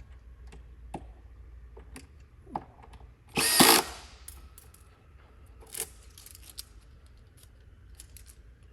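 Cordless drill/driver run in one short burst, about three and a half seconds in, tightening the standing-desk frame's screws. Light clicks and knocks of handling come around it, with a briefer, fainter buzz near six seconds.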